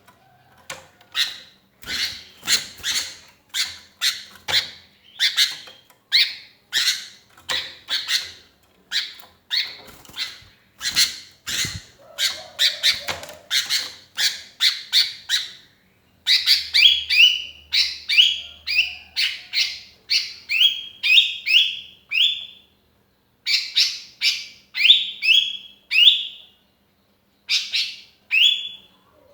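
Sooty-headed bulbul calling over and over: a quick run of sharp chirps, about two a second, then from about halfway on short phrases of two or three notes falling in pitch, separated by brief pauses.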